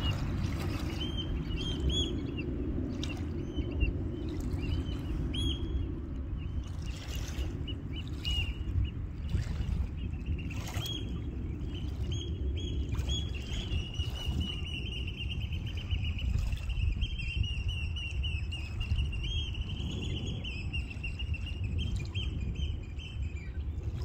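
Birds chirping in short high calls again and again, then a longer continuous high trill from about halfway through to near the end, over a steady low rumble.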